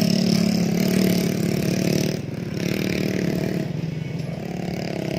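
Motocross dirt bike engine running hard with a fast, buzzing pulse. It drops in level about two seconds in, then carries on quieter and fades.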